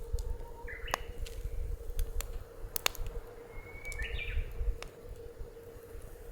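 Wood fire crackling in a steel fire pit, with scattered sharp pops. A bird chirps twice, about a second in and around four seconds in, over a low rumble of wind on the microphone.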